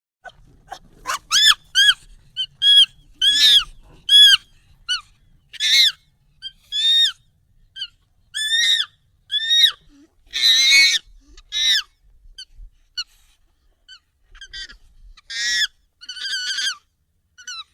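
Monkey calls, sped up and raised in pitch: a string of short, high, arching squeaks and chirps, roughly one or two a second, with a longer, harsher call about ten seconds in.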